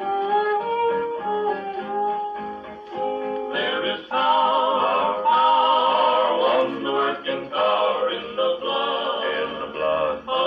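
Old country-western gospel record played on a tube-amp jukebox. A guitar intro gives way, about three and a half seconds in, to a male vocal group singing in close harmony. The sound is dull at the top, as on an old recording.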